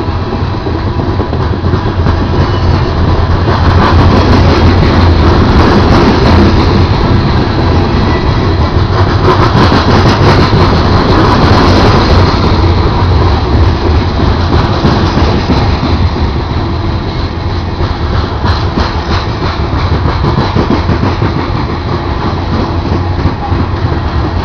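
Slow freight train rolling past at close range: a steady rumble of wheels on rail with rapid clicking, loudest from about 4 to 12 seconds in.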